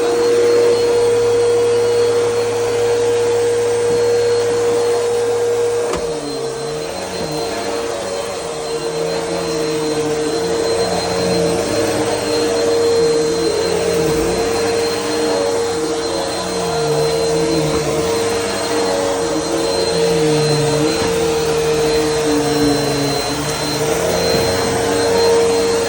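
Bissell Helix upright vacuum cleaner running, with a strong steady motor whine. About six seconds in, a low hum drops out and the lower tones start to rise and fall while the whine holds.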